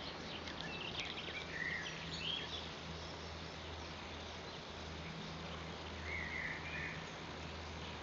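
Garden ambience with a few short bird chirps, a cluster in the first couple of seconds and one more around six seconds in, over a steady low hum.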